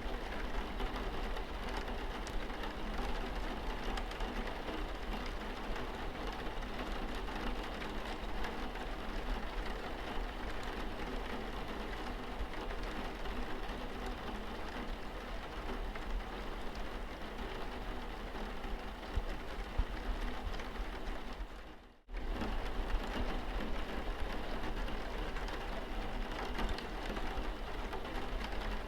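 Steady rain pattering on a car's windscreen, with a faint low hum underneath. About three-quarters of the way through, the sound fades out briefly and then cuts back in.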